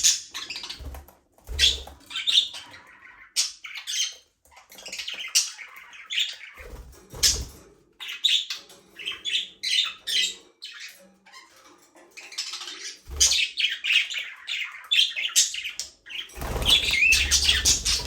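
A flock of budgerigars chirping and chattering in quick, overlapping short calls, with a few low thumps and a louder burst of chatter and scuffling near the end.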